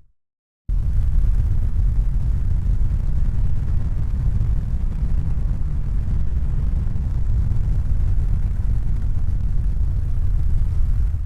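Steady deep rumbling noise with no distinct tones, starting abruptly just after a moment of silence and fading away near the end.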